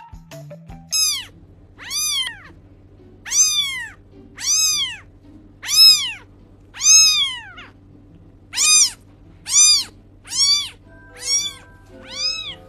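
Young kitten meowing repeatedly: eleven high-pitched calls, each rising then falling in pitch. They come about one a second, a little faster in the second half.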